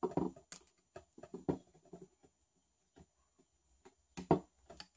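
Small screws and parts being handled and set down on a work surface: a string of light, irregular clicks, taps and scuffs.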